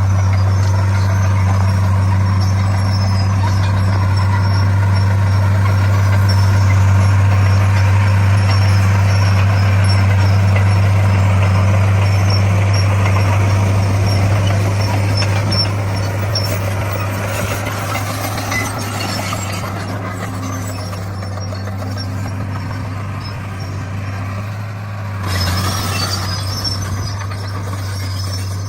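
Komatsu D41 bulldozer's diesel engine working under load with a steady low drone, as the dozer pushes and spreads crushed stone. The sound eases somewhat about halfway through, with a brief louder surge near the end.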